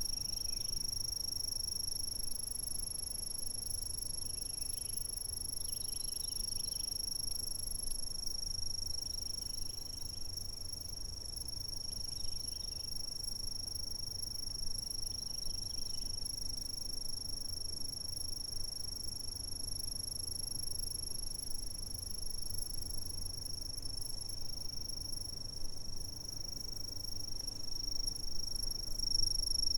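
Insects trilling in one steady, unbroken high-pitched tone, over a faint low rumble.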